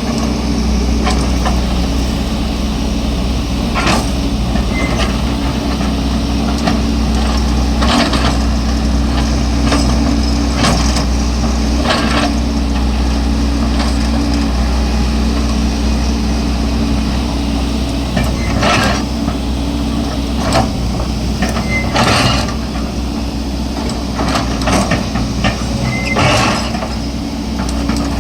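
Diesel engine of a hydraulic excavator running steadily under load, with intermittent clanks and knocks every few seconds from the bucket working through broken road material.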